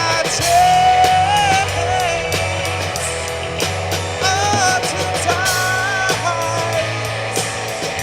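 Rock band playing an instrumental passage, with a high lead line of held notes that bend in pitch over guitar and drums.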